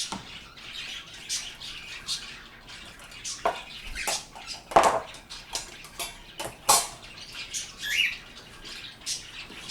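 Pet birds squawking and chirping in short, scattered calls, the loudest squawks coming about five and seven seconds in, with a quick rising-and-falling chirp near eight seconds.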